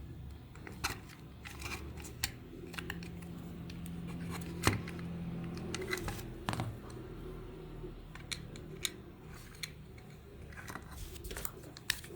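Scattered sharp clicks and snips of hand tools and small parts being handled, with a faint low hum for a few seconds in the middle.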